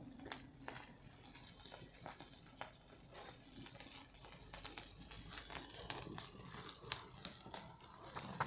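Burning wood in a bonfire crackling, with scattered sharp pops at irregular intervals.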